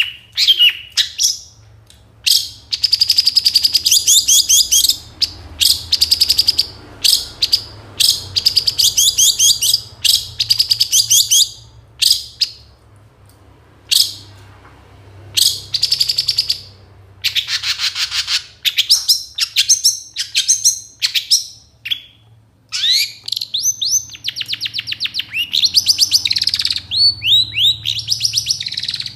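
Long-tailed shrike (cendet) singing a loud, varied song packed with mimicked phrases: rapid runs of high chirps and trills, broken by short pauses.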